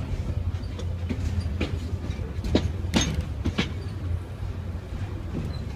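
Train wheels rolling along the rails with a steady low rumble and sharp clacks about once a second as they pass over rail joints.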